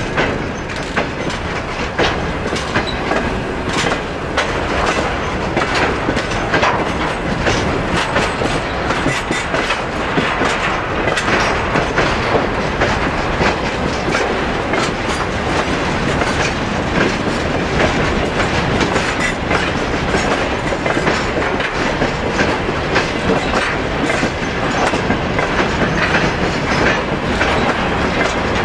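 Freight train of covered hopper wagons and open wagons rolling past close by. The wheels clatter over the rail joints in a steady, rapid clickety-clack, with many sharp knocks from the running gear.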